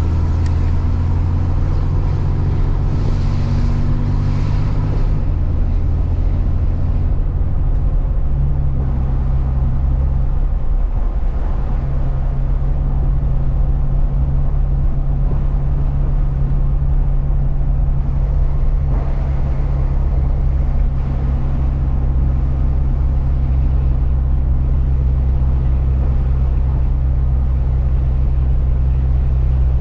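Truck engine and road noise while driving: a steady low drone whose note changes twice in the first eight seconds or so, then holds steady.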